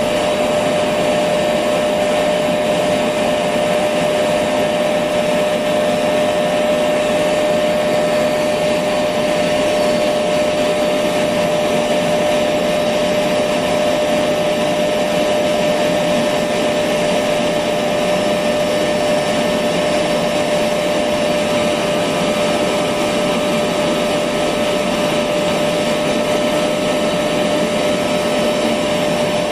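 Electric vacuum cleaner running steadily, a constant motor hum with a whine near 600 Hz over airflow noise.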